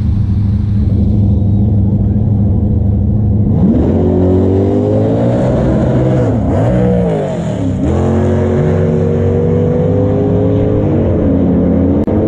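Classic muscle car accelerating down a drag strip. Over a steady low rumble of engines, the engine note climbs in pitch about four seconds in, drops back twice at gear changes, then holds before easing off near the end.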